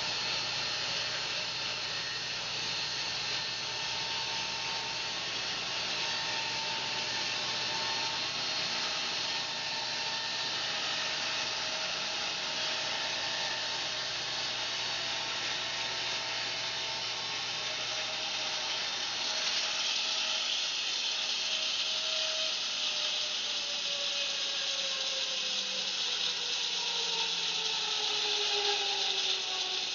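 Home-built bandsaw mill running steadily while sawing fir. About two-thirds of the way through a low hum drops out, and the whine falls steadily in pitch as the mill slows down.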